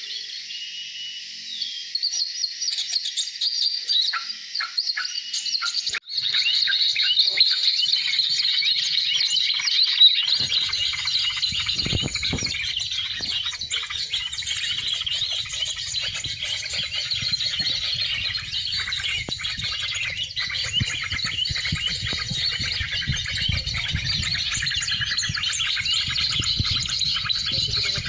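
Tropical forest ambience: many birds chirping over a dense, steady high chorus. A low rumble joins about ten seconds in.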